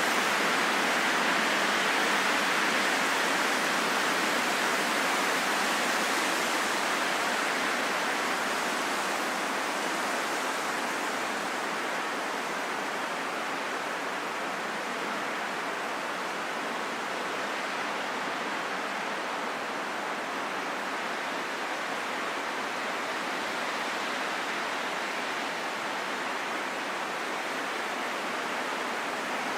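Steady rain falling in a forest: an even hiss, easing slightly in loudness over the first ten seconds or so.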